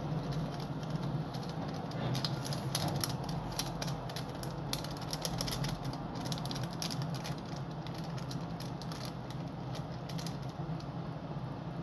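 Small plastic seasoning packet of seaweed and sesame seeds being handled and opened: a run of quick crinkles and crackles, densest in the middle, over a steady low hum.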